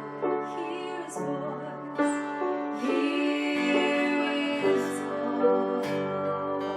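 Worship music: a woman singing a slow chorus over piano accompaniment.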